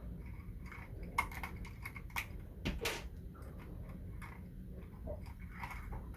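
Plastic Lego parts of a single-cylinder Scotch-yoke vacuum engine clicking and clacking irregularly, with a few louder clacks between about one and three seconds in, over a low steady hum.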